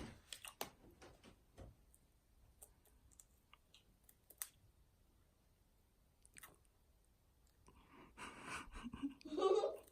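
Faint, scattered crunches and clicks of potato chips being chewed, with long quiet gaps between them and a louder stretch of crunching noise near the end.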